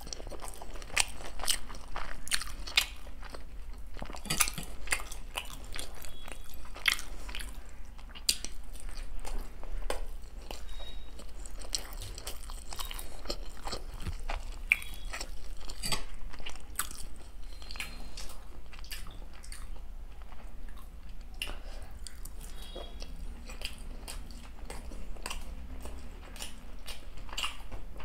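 Close-miked eating of Indian street food (dahi golgappa and paneer momos): a run of bites and chewing, with many irregular sharp crunches and crackles.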